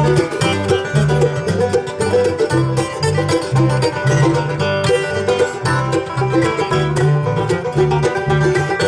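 Live country band playing an instrumental break: quick plucked-string picking over a steady bass line, with no singing.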